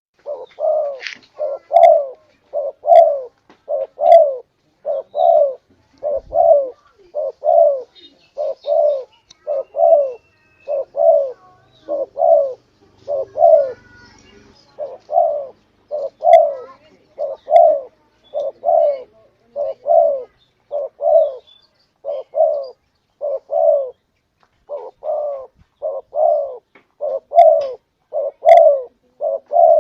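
Spotted dove (tekukur) cooing: short coos repeated about once a second in a long, unbroken series, the kind of call used as a lure to draw wild doves in.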